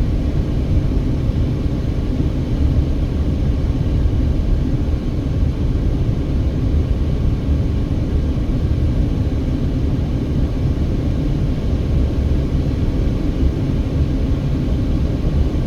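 Steady low rumble of a car driving along at road speed, tyre and engine noise heard from inside the cabin.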